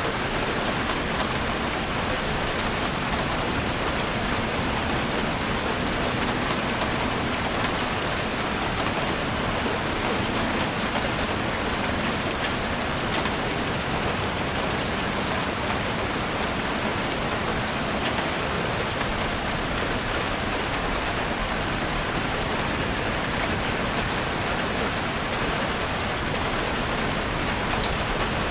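Heavy rain pattering steadily on a chalet roof, a dense hiss dotted with fine drop ticks.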